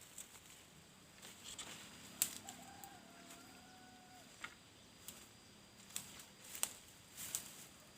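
Small birds (sogok ontok) giving sharp, high chips at irregular intervals, with a faint held whistle-like note about a third of the way in.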